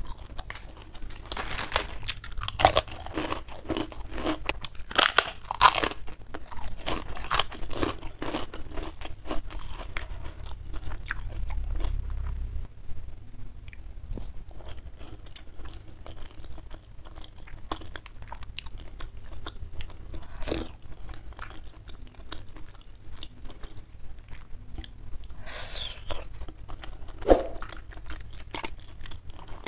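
Close-up crunching and chewing: a crisp cracker is bitten and chewed with loud dense crunches through the first several seconds, followed by softer chewing with scattered clicks and wet mouth sounds.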